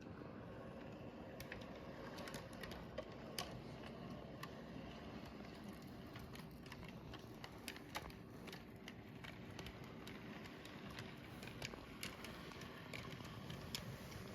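HO-scale Union Pacific model locomotive running in reverse on its track: a steady low rumble from the motor and wheels, with irregular sharp clicks throughout.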